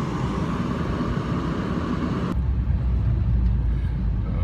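Steady car engine and road noise inside a moving car driving through snow. About two seconds in the sound switches abruptly from a wide hiss to a deeper, steady rumble.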